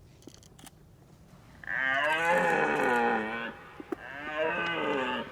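Red deer stag roaring during the rut: two long, deep roars, the first starting a little under two seconds in and the second following after a short pause.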